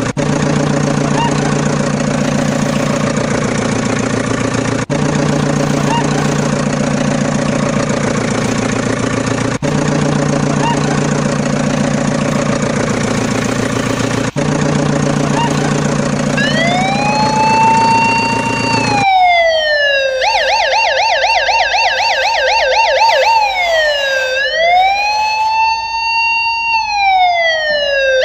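A vehicle engine runs steadily, repeating as a loop with a brief dropout about every five seconds. About sixteen seconds in, an electronic siren wail rises over it. The engine cuts out a few seconds later and the siren goes on alone, switching between slow rising-and-falling wails and a fast yelp.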